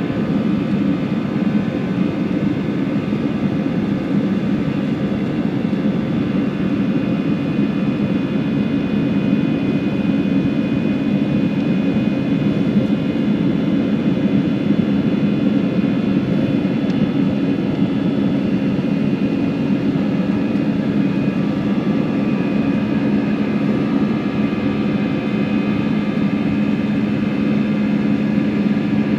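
Airbus A320 jet engines heard from inside the passenger cabin, a steady loud drone with a low hum and high whining tones that grow stronger about three-quarters of the way through.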